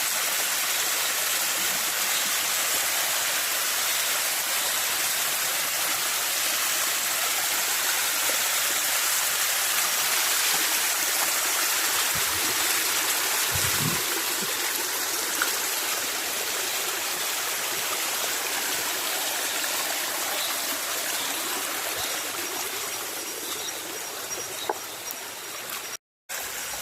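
Steady rushing of a forest stream, a continuous even water noise. The sound drops out completely for a moment near the end.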